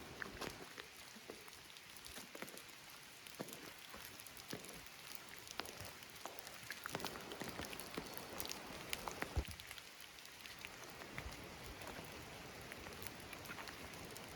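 Steady rain falling, with many irregular close drop ticks scattered over the hiss.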